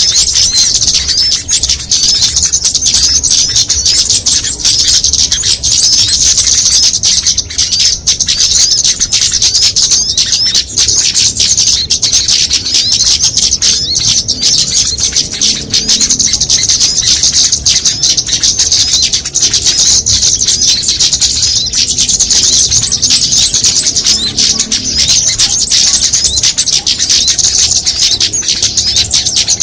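A dense, unbroken chorus of high-pitched chirps and trills from many small songbirds: a mixed bird-lure ('pikat') recording made to draw small birds in.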